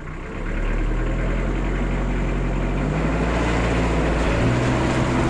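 Vehicle engine running hard as the vehicle pulls away, loud and steady, with its pitch shifting about three seconds in.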